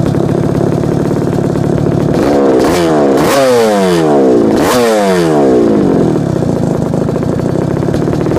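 Kawasaki KX125 two-stroke single-cylinder motocross engine idling, then revved sharply three times between about two and five seconds in, each rev falling back before it settles to idle again.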